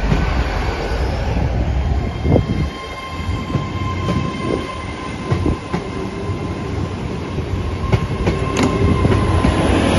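Great Western Railway Class 800 IET train pulling out past the platform. Its wheels click and knock over the rail joints under a steady rumble, and a steady whine sets in about two seconds in.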